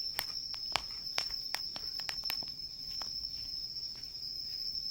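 A steady high trill of night insects, with the sharp pops and crackles of a wood campfire, most of them in the first two and a half seconds.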